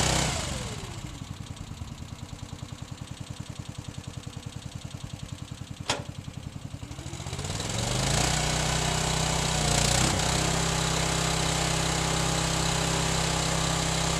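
An engine throttled down from a steady run to a slow idle where each firing pulse can be heard, with one sharp click about six seconds in. It then revs back up and runs steadily.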